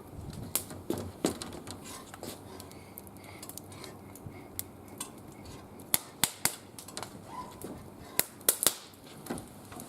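Wood fire burning in a barbecue grill, crackling with irregular sharp snaps and pops, a few louder pops coming past the middle and near the end.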